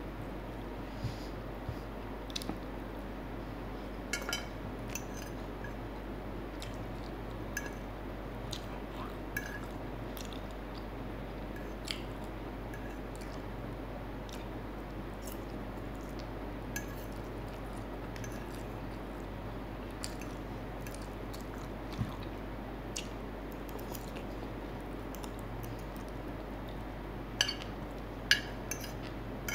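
Close-up mouth sounds of chewing and biting fried chicken and spicy instant noodles, with small scattered clicks, over a steady low hum. Near the end a few sharp clinks of a metal fork on the plate.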